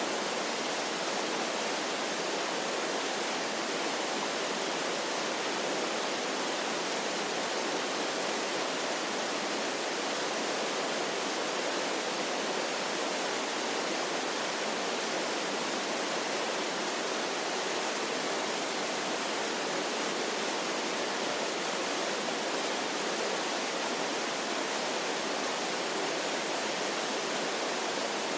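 Waterfall: a steady, even rush of falling water with no deep rumble and no change.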